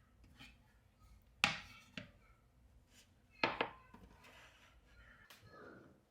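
Several sharp knocks and clinks of hard objects. The loudest comes about a second and a half in, a lighter one half a second later, and a quick pair at about three and a half seconds, with softer clicks between.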